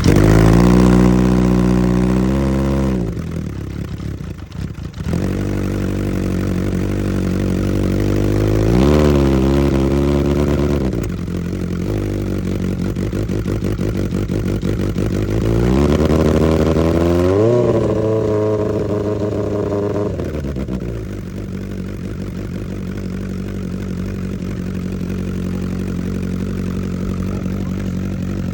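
Honda CB900F inline-four engine with Mikuni racing carburettors running just after its first start. The revs rise and fall a few times, with a brief dip soon after it catches, then settle into a steady, lower idle for the last third.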